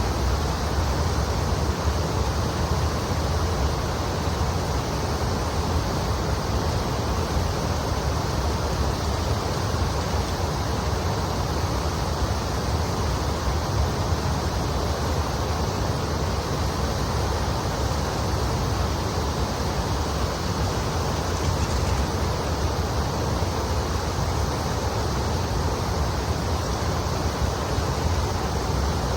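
Kamo River water flowing and rushing steadily, with a low rumble under it.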